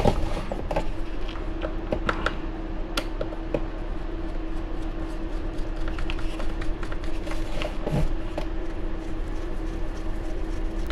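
Scattered small clicks and taps of a hand hex driver and small metal parts as screws on an RC buggy chassis are loosened and adjusted, over a steady low hum.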